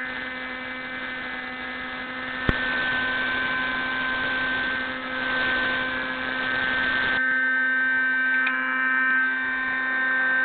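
The Raptor 30 model helicopter's small nitro glow engine running at a steady speed, a constant high whine with a rushing noise under it that drops away about seven seconds in. A single sharp click comes about two and a half seconds in.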